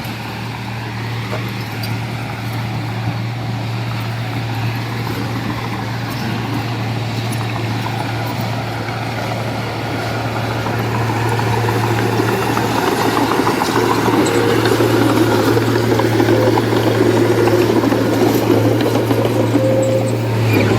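Diesel engine of a working construction machine running steadily with a constant low hum, growing louder about halfway through.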